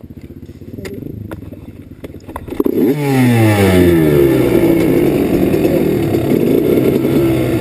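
Dirt bike engine running at low revs, then about two and a half seconds in revving up with a quick rise in pitch and running loud at high revs.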